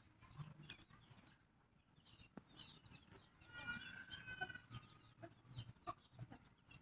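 Chickens calling faintly: a scatter of short, high-pitched chirping calls, a few of them held a little longer just past the middle.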